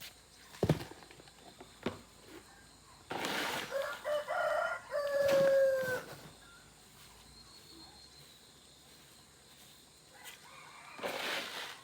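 A rooster crowing once, a drawn-out call of about three seconds that slides down at its end. A sharp knock comes just before it.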